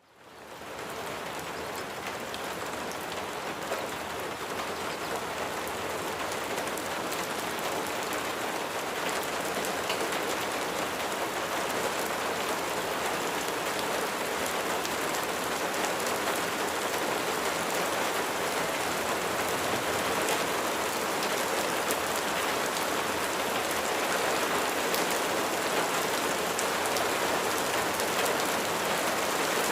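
Steady rain: a dense, even hiss of falling rain with scattered drop ticks, fading in from silence over the first second.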